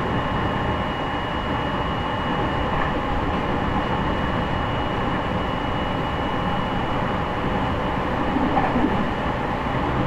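JR East E501 series electric train running, heard from inside motor car MoHa E501-8: a steady rumble of wheels on rail with a thin, steady high tone over it.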